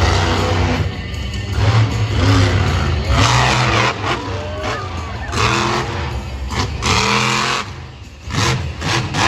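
Monster truck engine running and revving in surges, over loud arena music.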